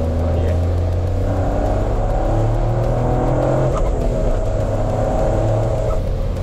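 GR Yaris H2's hydrogen-burning three-cylinder turbo engine accelerating hard, its pitch climbing through the revs, dropping for a gear change about four seconds in, then climbing again.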